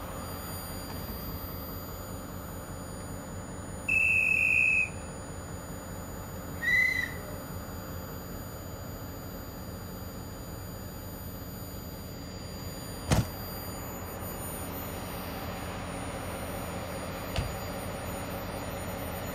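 A passenger train standing at a platform with a steady running hum, broken by two short high whistle blasts: one of just under a second about four seconds in, then a shorter, slightly lower one about three seconds later. A sharp knock comes near the end, and a fainter one shortly after.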